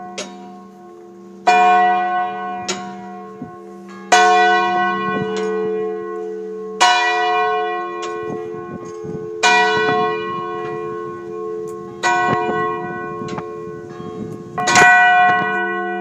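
Large firehouse rooftop bell tolling slowly, six strikes about two and a half seconds apart, each ringing on with a long hum that carries under the next stroke.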